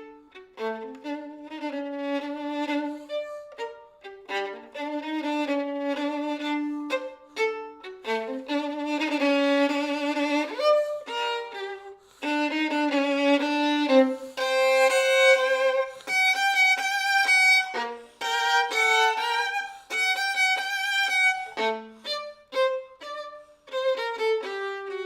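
Violin music: a melody with two or more lines sounding at once, with quick notes and a slide upward about ten seconds in.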